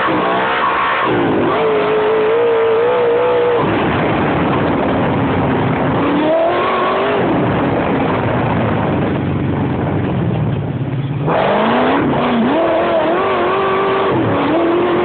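A 40-valve V8 engine in a light off-road buggy, running hard with the revs climbing and dropping repeatedly. Near the middle it drops off briefly as the throttle eases, then it picks up sharply again.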